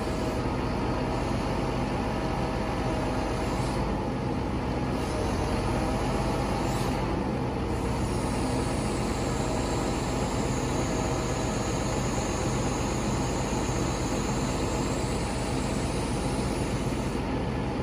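Crane delivery truck's engine running steadily, a loud continuous mechanical drone; a faint high whine joins about halfway through.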